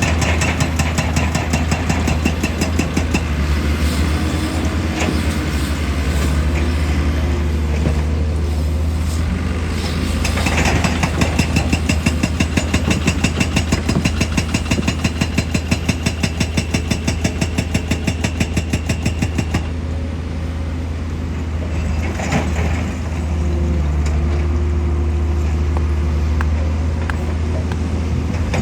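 Heavy excavator's diesel engine running, with a hydraulic rock breaker pounding rock in a fast, even hammering that stops about two-thirds of the way through while the engine keeps running.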